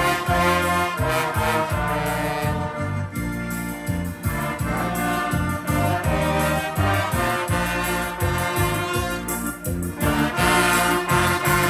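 Band music led by brass instruments, playing held notes over a steady, rhythmic bass line.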